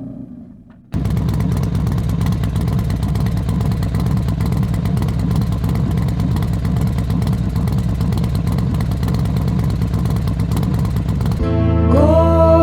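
Motorcycle engine running steadily on the road, cutting in suddenly about a second in. Near the end, music with singing takes over.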